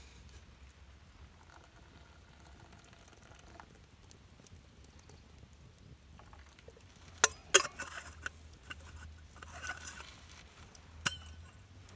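Sharp clinks and knocks, two close together about seven seconds in and another near the end, with small handling sounds between them.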